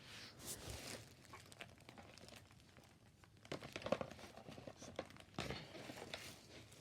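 Faint, irregular crinkling and rustling of gift bags and packaging being handled as items are packed, with a few louder rustles scattered through.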